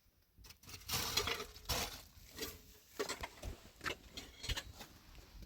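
Irregular knocks and clatter of objects being handled, about a dozen sharp strikes with short scrapes between them, like kitchenware being moved about.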